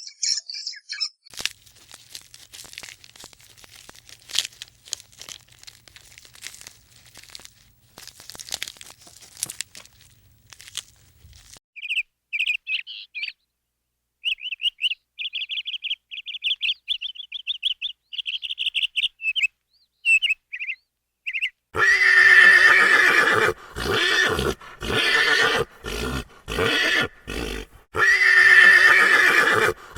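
Animal sounds in three parts: soft clicking and rustling, then rapid high chirping trills, then loud repeated calls, each about a second long.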